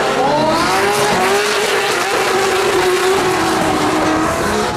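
Drift cars' engines running at high revs, the engine note rising early on, holding steady, then dipping and rising again near the end, over a hiss of sliding tyres.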